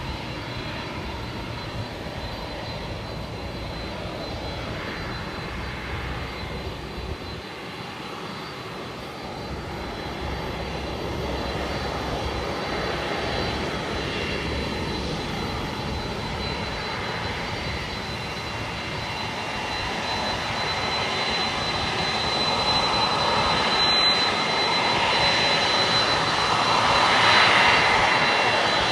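Jet airliner's engines running, a broad rush with a thin high steady whine, growing gradually louder and peaking near the end.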